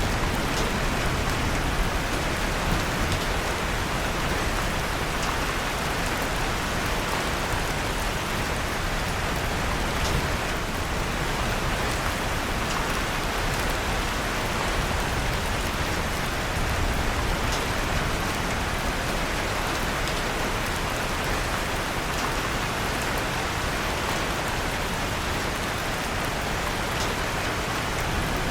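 Steady rain falling, an even hiss, with a few faint scattered crackles of a fireplace fire mixed in.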